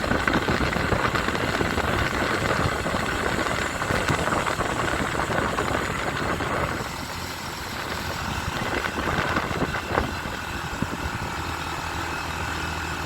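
Motorcycle engine running while riding, with steady wind and road noise on the microphone; it gets a little quieter about seven seconds in, and there is a single sharp knock about ten seconds in.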